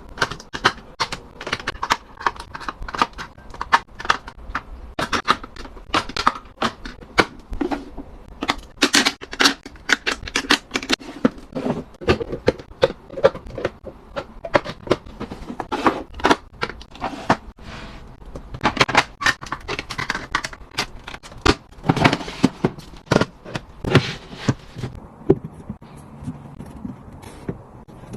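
Items being picked up and set down one after another: a dense run of sharp clicks, taps and knocks, thinning out near the end.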